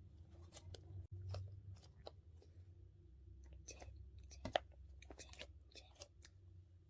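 Close-miked squeezing of a dumpling squishy toy: scattered soft, wet-sounding clicks and squelches, with one sharper click about four and a half seconds in.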